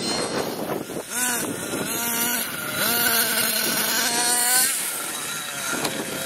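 Nitro RC monster truck's small glow-fuel engine revving with a buzzing whine. The pitch rises about a second in and again near three seconds, holds steady between, and falls away about four and a half seconds in.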